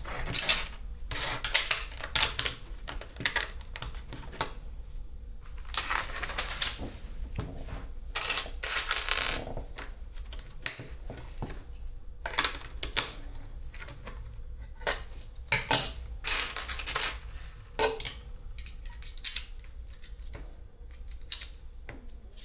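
Plastic LEGO pieces being handled and pressed together. Irregular sharp clicks are mixed with short bursts of clattering as loose bricks are sifted and knock against each other.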